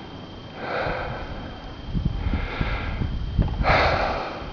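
Heavy breathing close to the microphone: three breaths about a second and a half apart, with low thumps underneath in the second half.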